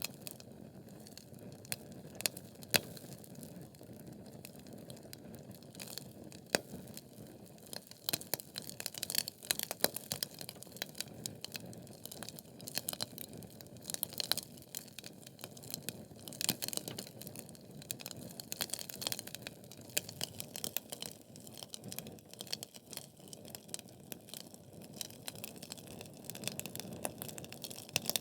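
Wood fire burning in a fireplace: logs crackling and popping in irregular sharp snaps over a steady low rush of flame, busiest through the middle.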